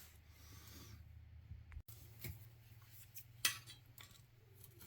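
Faint hand-tool clicks and scrapes against metal as a part is worked loose on a small two-stroke motorcycle engine, with one sharper click about three and a half seconds in. A low steady hum runs underneath.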